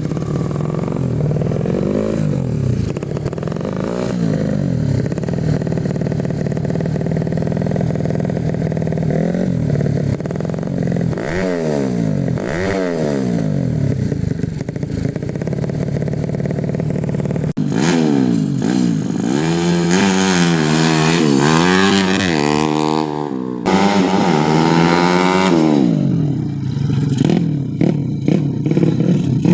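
Grasstrack motorcycle engine being revved over and over, its pitch climbing and dropping with each blip of the throttle. Past the middle it turns louder, with quicker, higher rev sweeps.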